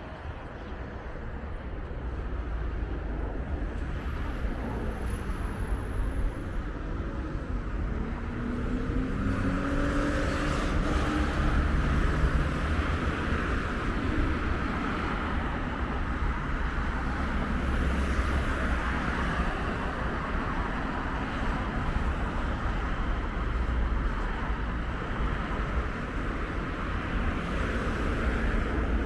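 Street traffic: cars driving past, with one engine's pitch sliding audibly about a third of the way in and the traffic noise growing louder from then on, over a low wind rumble on the microphone.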